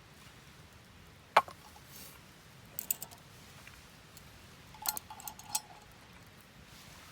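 Sharp clicks and light clinks of small hard objects being handled. There is one loud click about a second and a half in, a pair of clicks near three seconds, and a quick cluster of clinks around five seconds.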